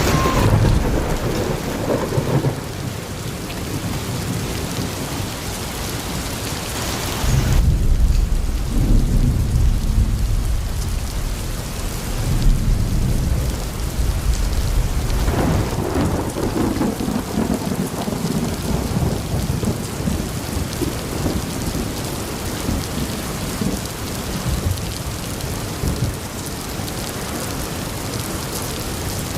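Steady heavy rain with rolling thunder. A deep rumble of thunder comes about eight seconds in and lasts several seconds, and further rumbles follow a few seconds later.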